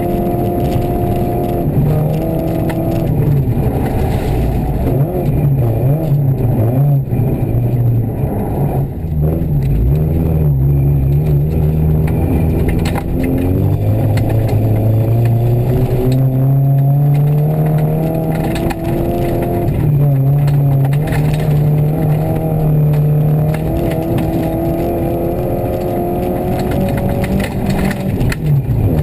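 Rally car's engine heard from inside the cabin, revving hard and dropping in pitch at each gear change, easing off and pulling again several times.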